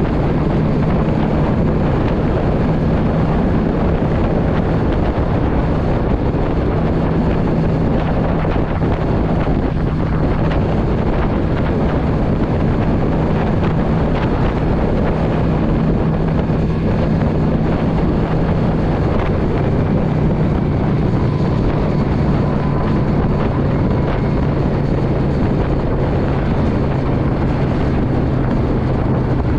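Yamaha V Star 650 cruiser's V-twin engine running steadily while riding, with wind buffeting the microphone. The engine note drops to a lower pitch about two-thirds of the way through.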